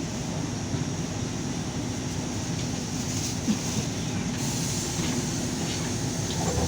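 LiAZ 5292.22 city bus under way, heard from inside the passenger cabin: steady engine drone and road rumble, with one brief knock about halfway through.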